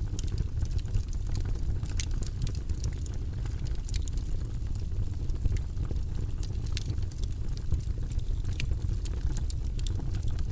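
Fireplace fire crackling: irregular sharp pops over a steady low rumble.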